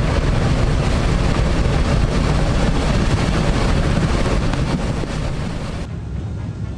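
Steady, loud rushing of a flash-flood mud flow pouring down a channel. The high end of the noise drops away abruptly about six seconds in.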